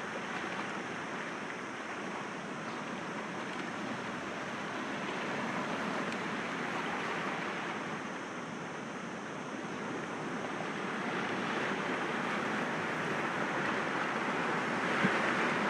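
Sea waves breaking gently against rocks, a continuous wash of surf that swells about halfway through and builds again toward the end.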